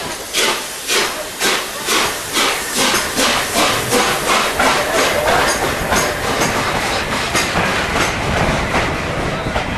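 Train running along the track, its wheels clattering over rail joints in a regular beat of about two knocks a second.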